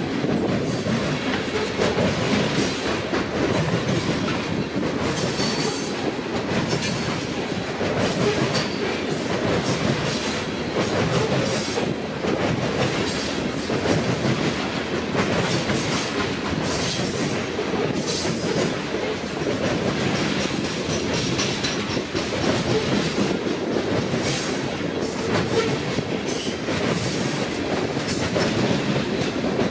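Freight train cars rolling past, their steel wheels clicking over rail joints again and again over a steady rumble, with a faint high wheel squeal at times.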